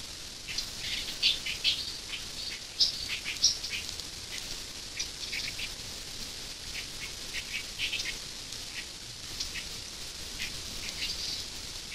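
Small birds chirping: many short, high calls scattered throughout, some louder and closer than others.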